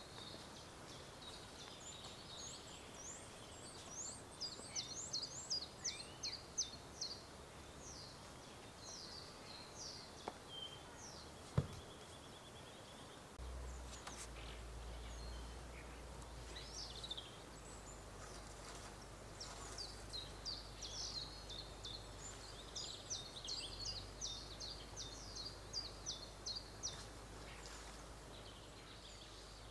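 Small songbird singing in two long bouts of rapid, high repeated phrases, over faint outdoor ambience. A single sharp click comes near the middle, and a low steady rumble sets in about halfway.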